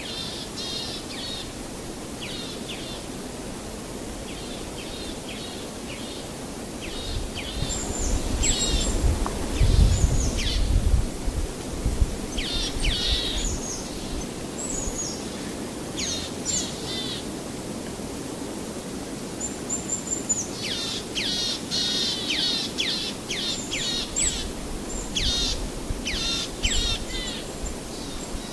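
Small birds chirping in quick runs of short, high notes over a steady hiss, with low rumbling thumps for a few seconds about a third of the way in.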